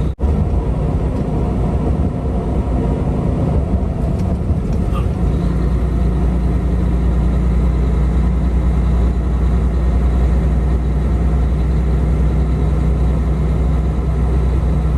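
Semi-truck engine and road noise inside the cab while driving, a steady low drone. The sound cuts out for an instant right at the start.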